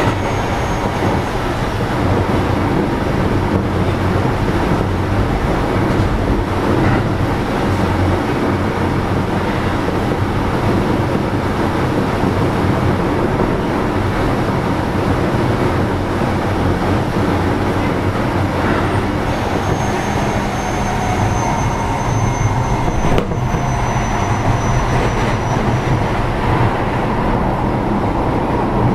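Keio 7000-series electric train running at speed, heard from inside car 7029: a steady rumble of wheels and running gear. A faint thin high whine comes in for a few seconds about two-thirds of the way through.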